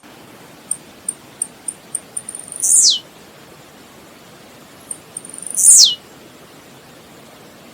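Blue-black grassquit (tiziu) singing: a short run of high ticks that speeds up, then a loud buzzy note sweeping down in pitch, given twice about three seconds apart over a steady hiss.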